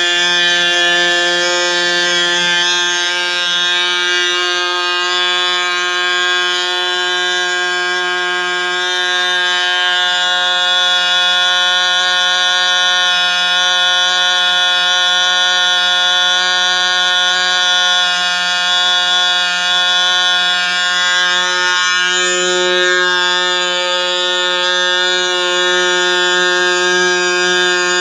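Small AM two-stroke model diesel engine running steadily at high speed, a constant high buzzing note, with a brief falter about twenty-two seconds in.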